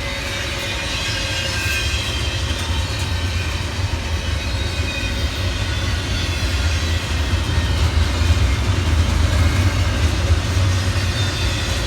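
A train running by on the tracks: a continuous deep rumble with rail and wheel noise, swelling a little over the last few seconds.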